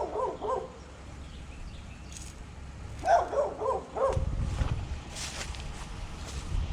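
A dog whining and yipping in quick runs of short rising-and-falling calls, once at the start and again about three seconds in. A low rumble follows from about four seconds in.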